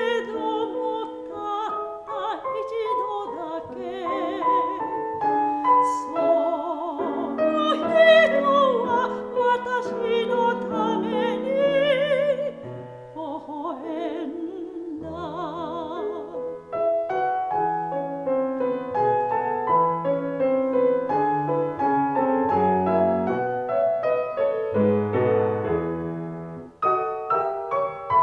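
Soprano singing with wide vibrato over piano accompaniment; the voice stops about halfway through and the piano plays on alone.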